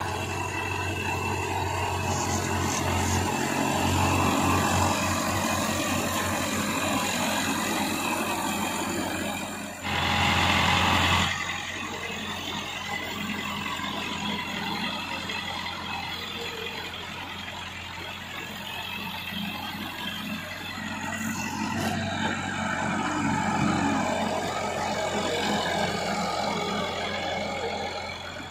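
Massey Ferguson 265 tractor's three-cylinder diesel engine running steadily under load while pulling a disc harrow. A louder rush of noise about ten seconds in lasts a second or so.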